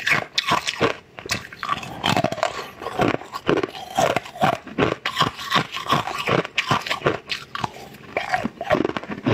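Close-miked eating sounds: wet bites and chewing on translucent green chunks from a bowl of green liquid, with sharp crunchy mouth clicks several times a second.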